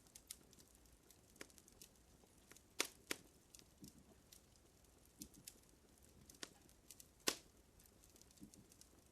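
Fire crackling: irregular sharp pops and snaps, the loudest a little under three seconds in and again after seven.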